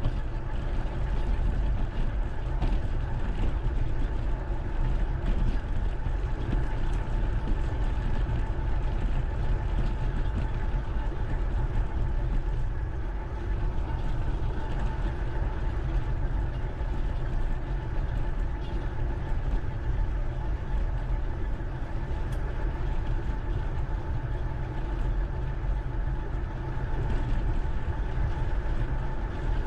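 Steady low rumble of riding on a bike, picked up by a GoPro, with a faint steady hum over it and no distinct events.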